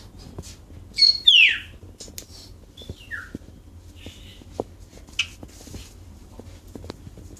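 Pet bulbul calling: a loud note sliding downward about a second in, then a shorter falling note about three seconds in, with fainter calls and small clicks between.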